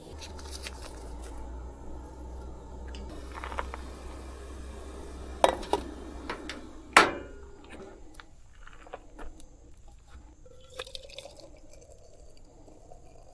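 Clinks and knocks of dishes and utensils, with two sharp clacks about five and a half and seven seconds in, over a low steady hum that fades out about eight seconds in.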